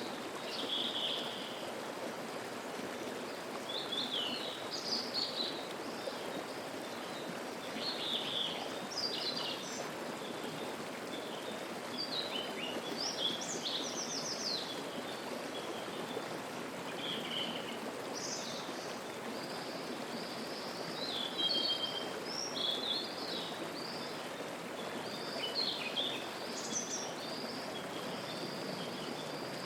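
Mountain stream rushing in a steady wash, with wild birds singing over it in short phrases and chirps every second or two.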